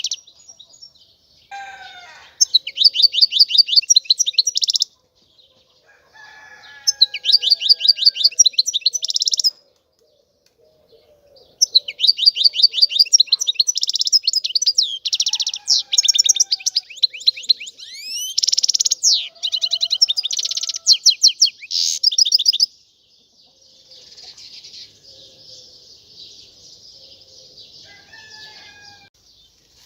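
European goldfinch singing in phrases of fast, rapidly repeated high notes, with short pauses between them. About halfway through comes a long unbroken run of song, and softer twittering follows near the end.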